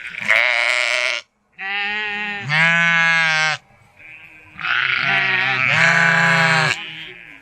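Sheep bleating: three long, loud baas one after another with short pauses between them.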